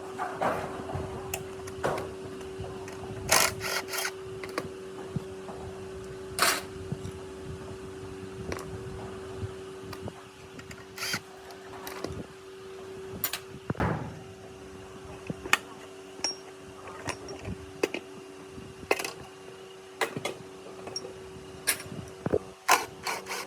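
Irregular clinks and knocks of hand tools and metal motorcycle parts being handled, over a steady low hum.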